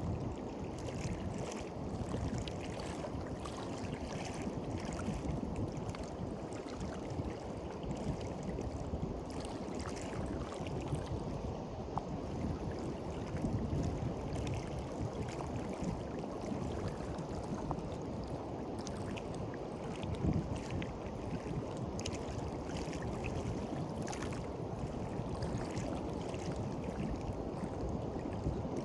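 Gentle sea waves washing onto a beach: a steady low rushing with faint fizzing crackles of water over sand and rock.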